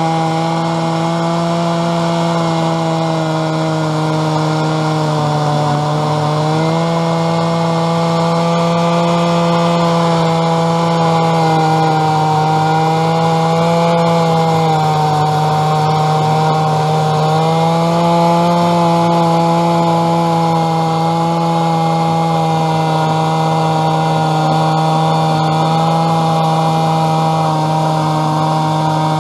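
Stihl chainsaw on a chainsaw mill running steadily at high throttle while ripping a log lengthwise into slabs. Its pitch sags slightly under load twice and then recovers.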